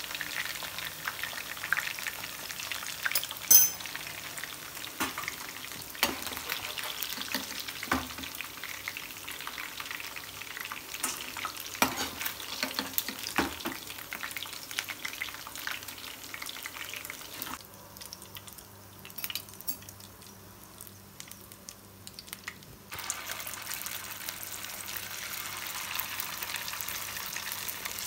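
Marinated chicken pieces deep-frying in hot coconut oil: a steady sizzling crackle with spatters, and scattered sharp clinks of a metal spoon in the pan as pieces are scooped out, the sharpest a few seconds in. Past the middle the sizzle drops much fainter for about five seconds, then comes back.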